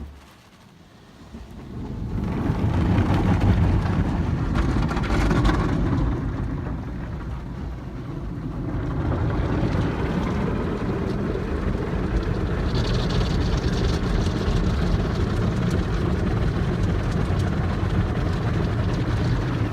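Belanger FreeStyler automatic car wash running, heard from inside the car: a steady rush of spray and machinery that swells up about two seconds in and then holds.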